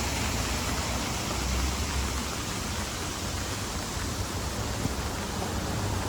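Steady hiss of rain falling on a city street, with a low rumble underneath.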